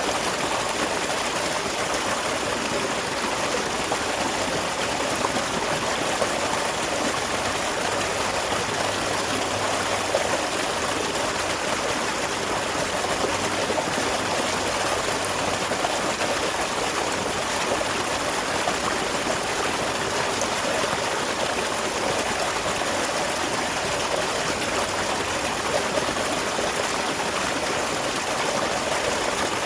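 Small waterfall with water steadily splashing and trickling.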